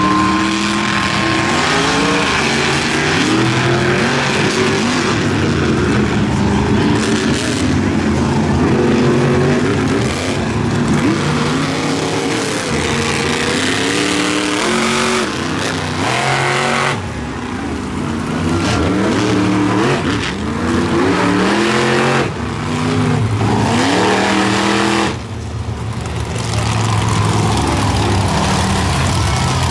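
Monster truck engines revving hard again and again, the pitch climbing and dropping back many times, with a few brief lulls.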